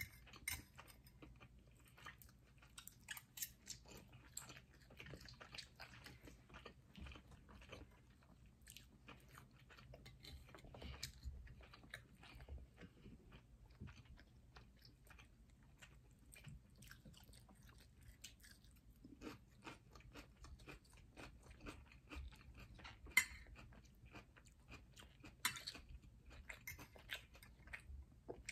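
Faint close-up chewing, biting and crunching of people eating lobster, salmon and crunchy sweet peppers stuffed with cream cheese. Many small scattered clicks, with a couple of sharper clicks in the latter part.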